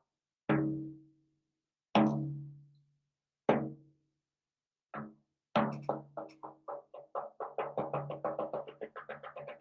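A percussion instrument struck four times, slowly, about a second and a half apart, each stroke ringing out with a low pitched tone. Then, from about halfway through, quick taps that speed up into a fast, even patter.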